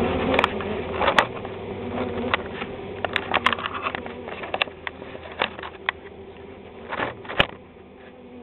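Honey bee swarm buzzing as a steady hum, with a scatter of sharp clicks and knocks over it, the loudest about a second in and near the end.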